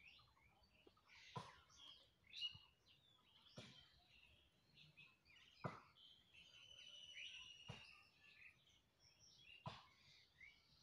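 Near silence with faint bird chirps and whistles. Soft clicks come about every two seconds.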